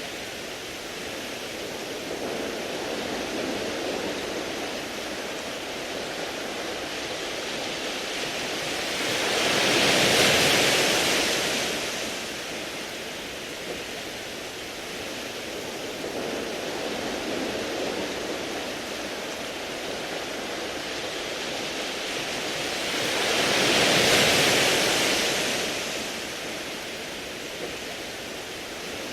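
Sea waves washing over a beach of smooth round pebbles: a steady wash, swelling into two larger surges, one about ten seconds in and another near the end.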